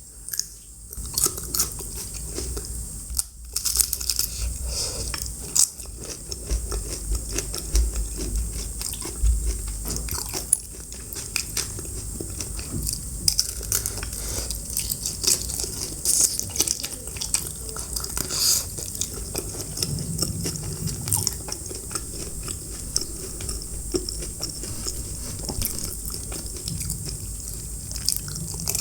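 Close-miked eating: biting and chewing with many sharp crunchy clicks, heard at high ASMR mic gain.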